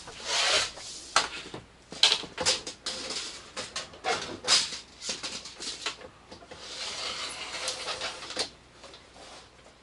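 Irregular scraping and rubbing with sharp clicks and knocks: handling noise from measuring with a tape measure inside a box-truck body. It dies down about 8.5 seconds in.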